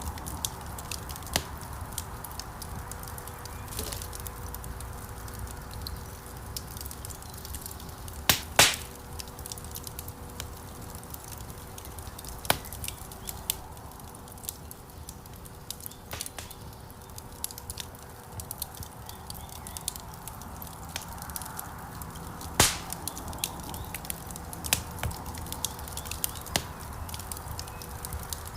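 Wood fire burning in a fireplace: a steady low rush of flames under constant small crackles, with two sharper, louder pops from the burning logs, one about a third of the way in and another about two-thirds of the way through.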